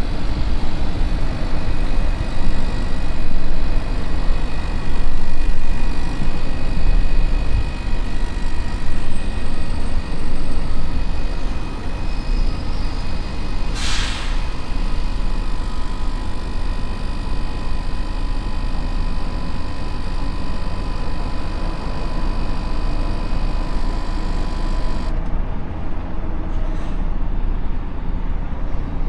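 Truck's diesel engine running with a steady low rumble, and one short hiss about halfway through.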